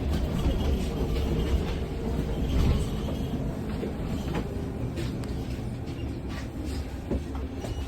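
Inside a moving electric bus: a steady low rumble from the ride, with a faint steady motor whine and occasional light rattles and clicks. The rumble eases a little about three seconds in.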